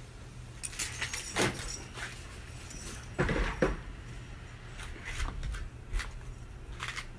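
A scatter of light knocks and rattles, loudest a little past the middle, over a steady low hum.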